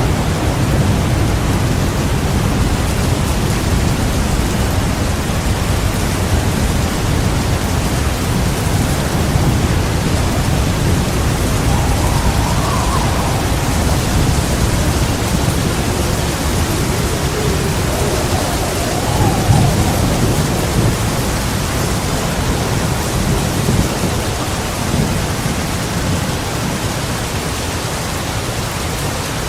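Heavy rain falling steadily with thunder rumbling low underneath, easing slightly near the end.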